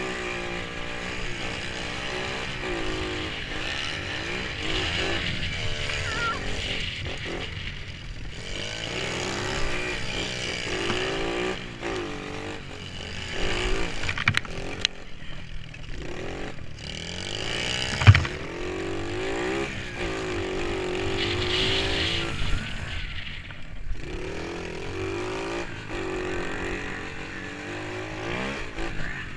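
Pit bike engine revving up and down repeatedly, its pitch climbing and dropping every few seconds, with one sharp knock about eighteen seconds in.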